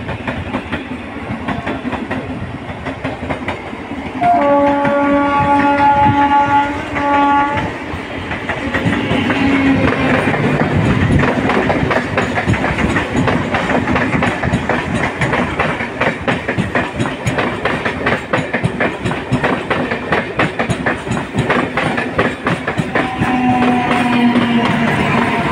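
Electric suburban local train (EMU) sounding its horn, a long blast and then a short one, about four seconds in. It then passes close by with loud clattering of wheels over the rail joints. Near the end a tone falling in pitch runs under the clatter.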